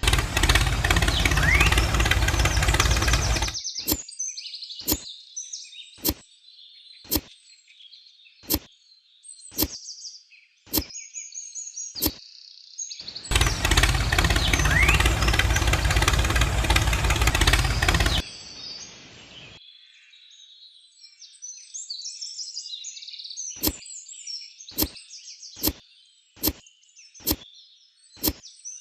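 Birds chirping, broken twice by loud rushes of noise with a low rumble lasting a few seconds each. Between the rushes come sharp clicks about once a second.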